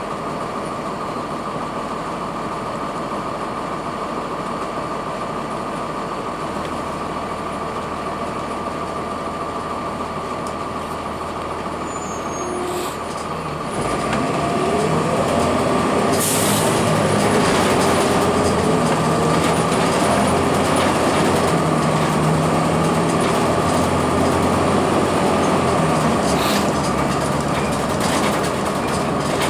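Cummins ISC diesel engine of a Blue Bird CS transit bus running steadily, then growing louder about halfway through as the bus pulls away, with a rising and falling whine from the engine and Allison transmission. A brief hiss of air is heard shortly after the bus moves off.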